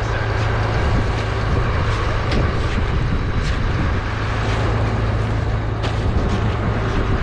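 Strong wind blowing across the microphone over a steady low engine hum, with a few sharp snaps a couple of seconds apart.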